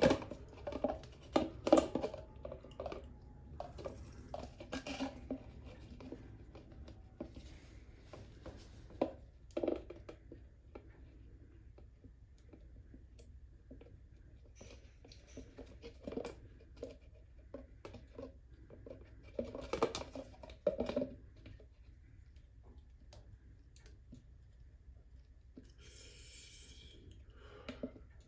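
Irregular clicks, taps and clatter of small hard objects being handled, in clusters, with a short hiss near the end.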